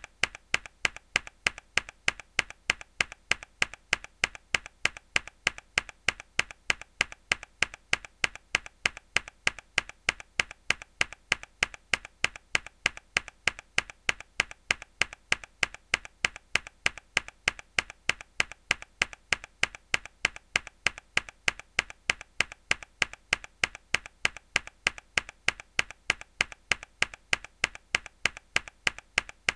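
A hard key press on a mechanical keyboard, looped: a sharp click repeating at a fast, even rhythm.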